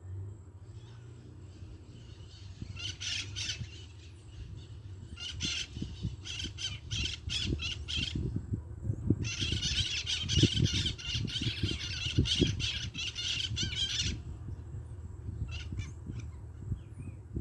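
A bird squawking harshly: a few rough calls, then a rapid run of them, then a long unbroken chatter of about five seconds that stops abruptly. Low rumbling thuds run underneath.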